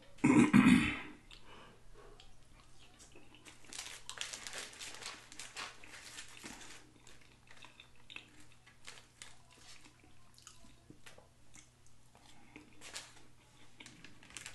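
Close-miked chewing and crunching of fried chicken wings and fries, with crinkling of the takeout box's paper liner as fingers pick through it. There is a loud, short crunch just after the start and a louder stretch of crisp crackling about four to six seconds in.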